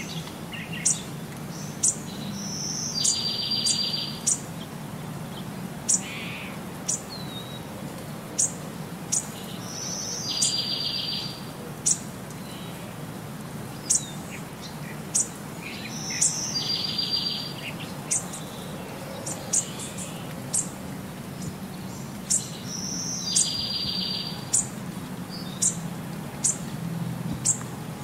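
Birdsong: sharp, high chirps about once a second, with a buzzy trill repeating in the same pattern every six or seven seconds, over a low steady hum.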